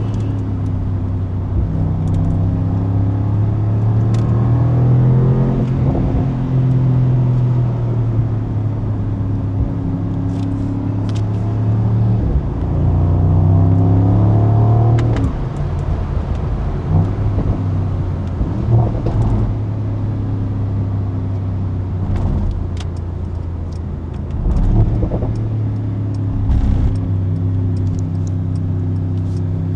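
Mercedes-AMG SL55's 4.0-litre twin-turbo V8 running on the move. Its engine note rises and falls in pitch several times as the car accelerates and eases off.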